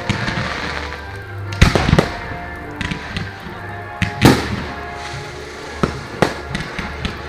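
Fireworks going off: several sharp bangs with crackle between them, the loudest about four seconds in.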